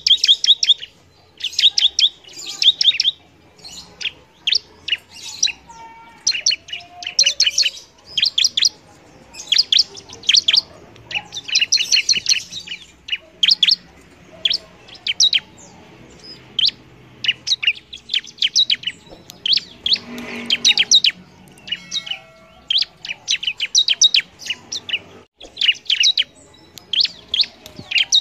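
Bar-winged prinia (ciblek) singing actively: rapid strings of high, sharp chirps in quick bursts, one after another with short pauses.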